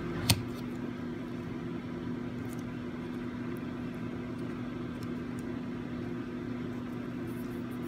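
A steady mechanical hum at a constant pitch, with a single sharp click about a third of a second in.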